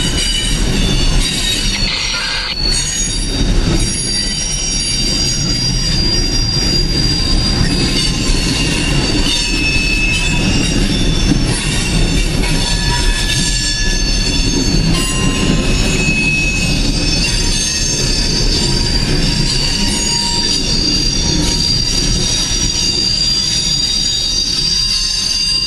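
Coal train's open-top cars rolling past, a steady heavy rumble of wheels on rail. Several high-pitched wheel squeals come and go over it.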